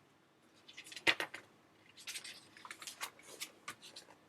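Pages of a picture book being handled and turned: paper rustling, with a sharp click about a second in and a run of short rustles and clicks after that.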